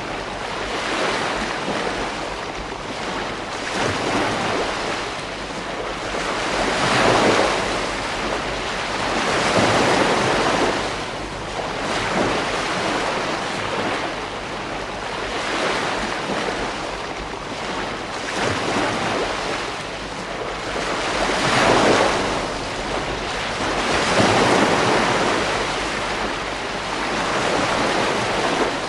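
Ocean waves breaking and washing on a beach, a continuous surf rush that swells and fades every few seconds. Wind is on the microphone.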